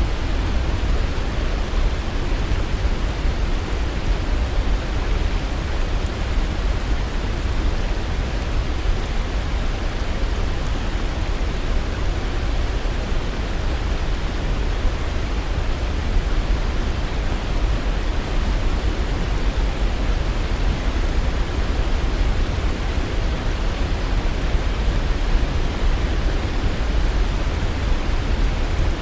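Steady rush of a waterfall, an even noise heaviest in the low end, unchanging throughout.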